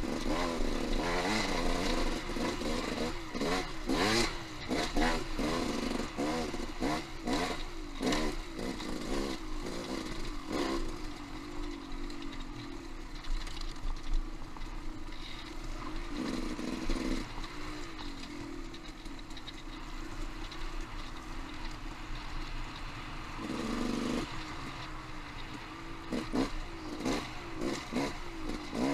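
Dirt bike engine revving up and down with the throttle while riding a rocky trail, with repeated knocks and clatter in the first ten seconds or so. The engine runs more evenly in the middle, with short bursts of revs about two-thirds of the way in and again later.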